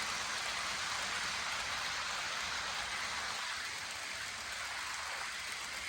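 Steady, even hiss with no rhythm, tone or distinct events.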